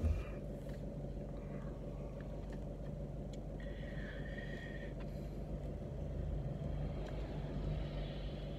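Steady low hum of a car's engine idling, heard from inside the cabin. A faint high-pitched note sounds for about a second and a half, a little under four seconds in.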